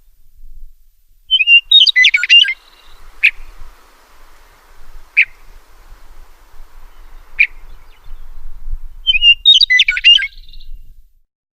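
A songbird singing two short, quick warbled phrases about eight seconds apart, with three single sharp call notes spaced evenly between them. The sound cuts off just before the end.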